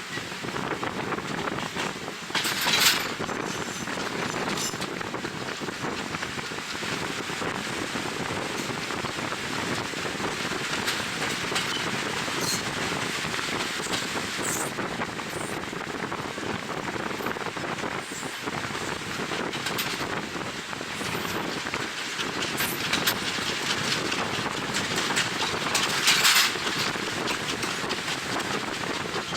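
Passenger train running along the line, with a steady rush of wheel-on-rail noise and wind buffeting the microphone. Two brief louder rushes of noise come about three seconds in and near the end.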